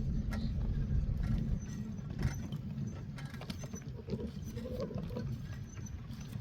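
Ride noise from a bicycle rolling along a paved path: a steady low rumble with scattered light clicks and rattles.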